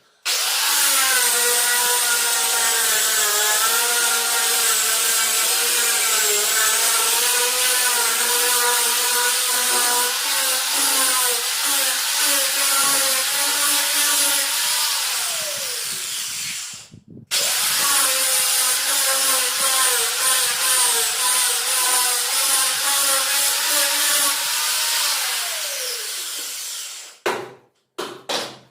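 Electric power tool working wood, run twice for long stretches with a motor whine over a hiss; after each run the whine falls away as the motor winds down once it is switched off.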